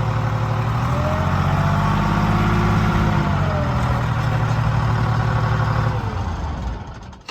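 A tractor's diesel engine running steadily. From about a second in its revs rise, then they settle back by about four seconds. Near the end the engine sound fades out quickly.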